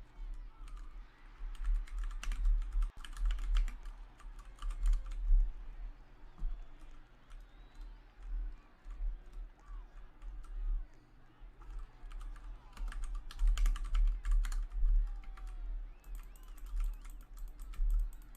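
Computer keyboard typing in several bursts of rapid clicks, over a low steady rumble.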